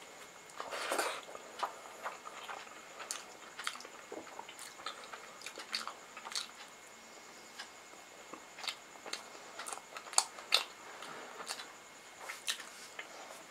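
Close-miked eating by hand: chewing of rice and curry-soaked pakoras, with irregular wet mouth clicks and smacks. There is a longer, louder patch about a second in.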